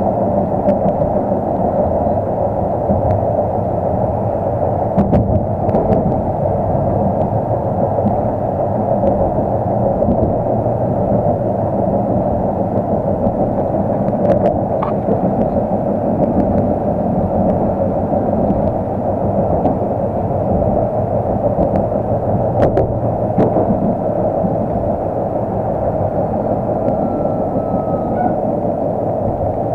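Inside a moving tram: a steady rumble from the running gear and the wheels on the rails, with a few sharp clicks.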